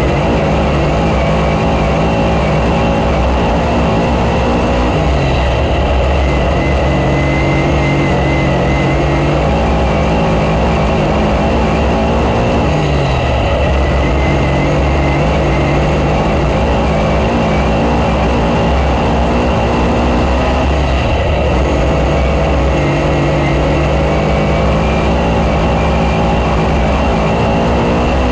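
Race car engine running hard lap after lap: its pitch holds level, then drops as the throttle is lifted for a turn, four times about seven to eight seconds apart.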